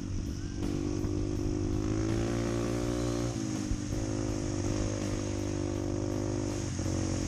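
Honda CT125's single-cylinder engine running steadily under way, its note dipping briefly about three and a half seconds in before settling again.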